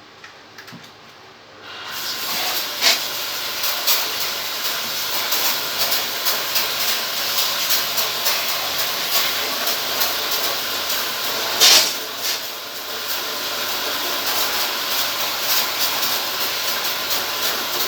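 Water sprayed under pressure onto an air-conditioner unit during cleaning: a steady hiss that starts about two seconds in, with brief louder spurts, once near the start and again about twelve seconds in.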